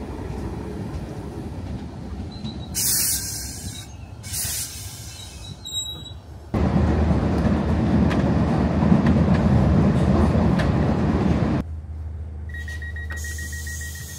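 DART electric train, an 8100-class unit, standing at a platform with its motors and equipment running. Compressed air hisses twice about three and four and a half seconds in, and short high beeps follow. It changes abruptly to the louder rumble of the train running, heard from inside the carriage, and then to a quieter rumble with a steady high tone near the end.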